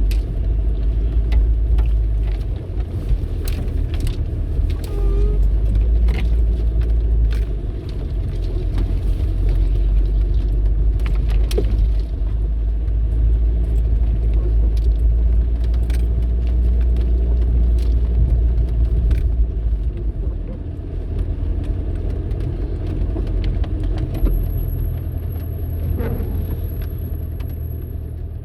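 1997 Jeep Cherokee XJ's 2.5-litre turbo diesel running under way off-road, a steady deep rumble that eases off briefly a few times, with many sharp clicks and rattles throughout.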